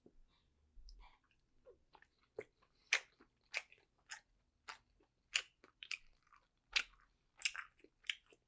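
Close-miked chewing of food with wet mouth clicks and smacks. It starts sparse, then settles into a regular rhythm a little under two a second from about three seconds in.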